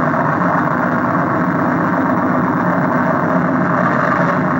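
Train locomotive passing close by a station platform, a steady rumble with no break. It is heard as a recording played back through an old CRT television's speaker.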